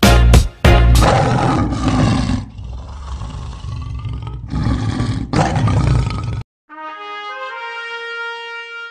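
Intro music with a few hard beats, then a long lion-roar sound effect that cuts off suddenly about six seconds in, followed by a brass fanfare of held chords.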